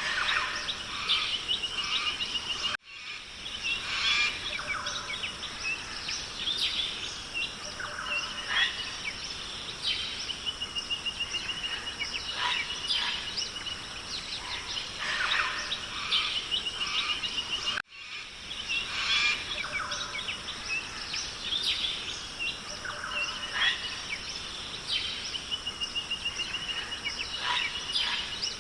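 Rainforest ambience: many birds calling, among them a repeated fast trill, over a steady hiss. The sound cuts out for an instant twice, about fifteen seconds apart.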